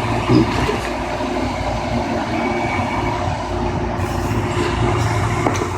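Steady low rumble of road vehicles and traffic, with a brief louder knock about half a second in.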